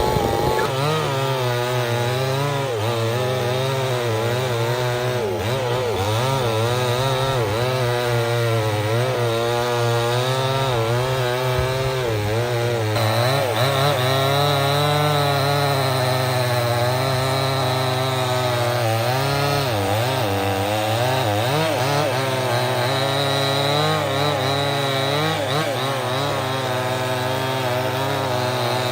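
Two-stroke chainsaw running under load, cutting through wood, its engine pitch wavering up and down as the chain bites.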